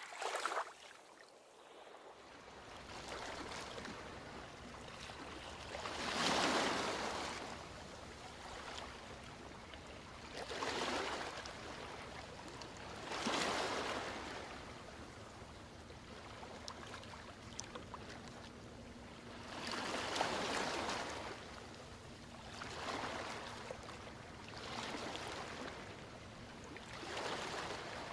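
Ocean waves breaking and washing on a beach, the surf swelling and fading in repeated surges every few seconds, the loudest about six seconds in and again around twenty seconds in.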